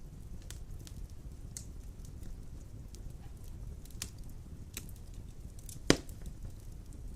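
Large logs burning in a stone fireplace: a steady low rumble of flame with scattered crackles, and one loud pop about six seconds in.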